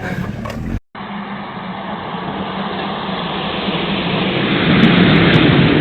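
Motor vehicle engine and road noise. It drops out briefly about a second in, then runs steadily, swelling to its loudest near the end and easing off.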